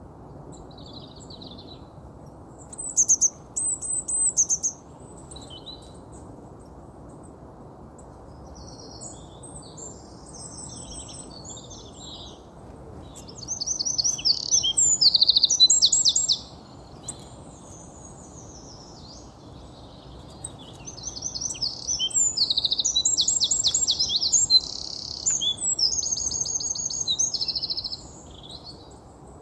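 European goldfinch singing in bouts of high twittering song with rapid trills. The song comes in three louder bursts, the longest running for several seconds near the end, with softer phrases between, over a steady low hiss.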